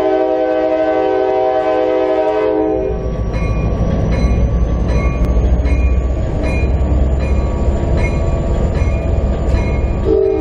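Diesel locomotive's multi-note air horn sounding a steady chord, which cuts off about three seconds in and starts again near the end as the train nears a grade crossing. In between, the locomotive's engine rumbles under rhythmic clicking of the wheels over rail joints, about two a second, with a faint high whine rising in pitch as the train picks up speed.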